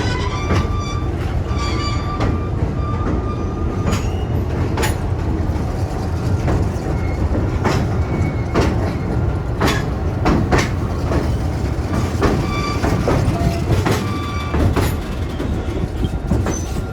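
Railroad passenger car rolling along the track: a steady low rumble with irregular sharp clicks of the wheels over rail joints, and short high wheel squeals now and then.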